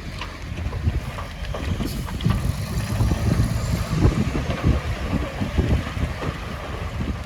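Heavy construction machinery's diesel engine running, mixed with wind buffeting the microphone in an uneven low rumble.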